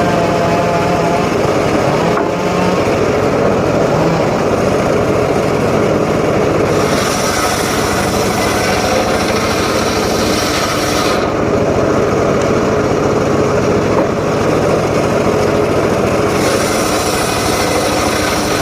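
Engine-driven power saw running steadily and cutting teak wood. A brighter, hissier edge comes in twice, from about 7 to 11 seconds and again from about 16 seconds, as the blade bites into the wood.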